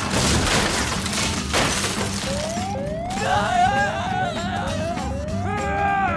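Cartoon sound effects: a noisy, crash-like rush for the first couple of seconds, then a quick run of short rising whoops, about two or three a second, with high wavering tones over them.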